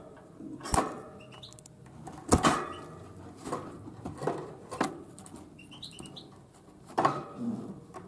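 A tit pecking at sunflower seeds: a handful of sharp, irregular taps, a second or more apart. Two short bursts of faint high chirps come in between, early and again about six seconds in.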